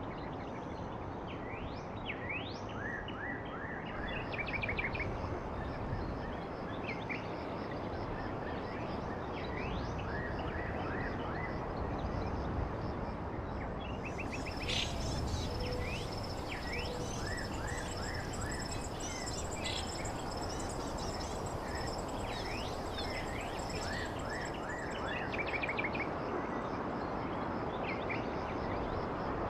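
Small birds chirping, in many short rising calls, over a steady background hiss.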